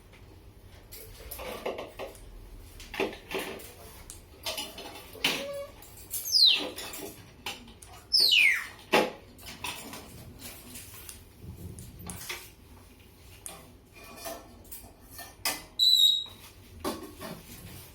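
Pet talking bird making scattered sharp clicks and knocks, two steep falling whistles and a short high whistle near the end.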